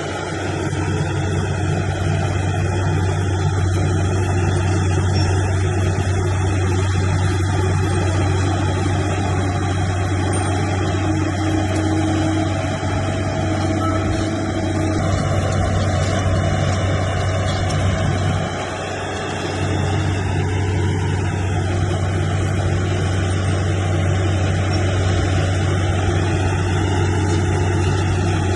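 Heavy diesel engine of earthmoving machinery running steadily under load, with a deep steady drone; it eases briefly about two-thirds of the way through, then picks up again.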